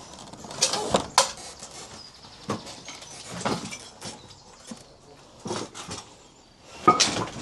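A handful of short, irregular scrapes and knocks spread across several seconds, the loudest near the end.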